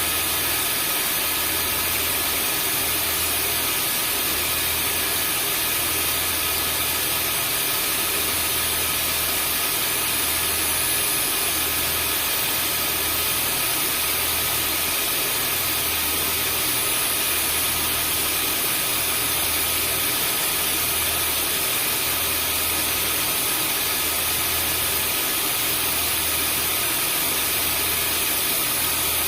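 Vacuum cleaner motor running steadily: a constant rushing noise with a steady high whine, over a low hum that swells and fades about every second and a half.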